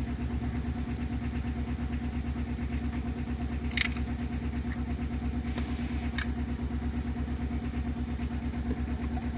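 Mahindra Xylo H4's engine idling steadily with an even pulse, running after its clutch overhaul. Two brief light clicks sound about four and six seconds in.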